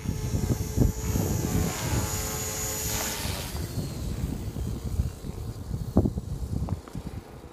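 Electric 6S RC helicopter (ALZRC Devil 480) with a steady motor and rotor whine that stops about three seconds in, over wind buffeting the microphone.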